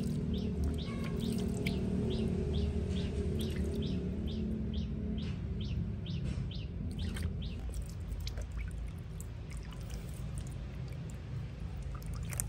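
A small bird chirping with short high chirps about twice a second. The chirps thin out about seven seconds in.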